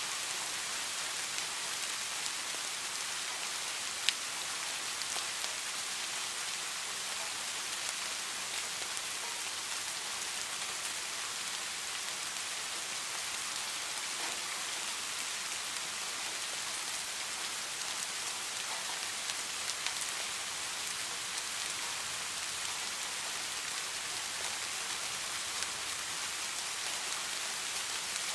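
Steady rain falling, an even hiss with scattered single drop ticks; one sharper, louder drop tick about four seconds in.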